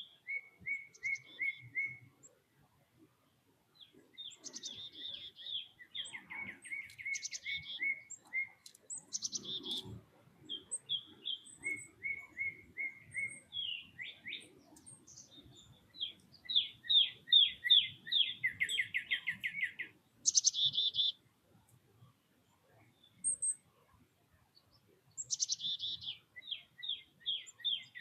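Songbirds calling at a feeder: runs of quick, repeated chirps and short trills from several birds, coming and going.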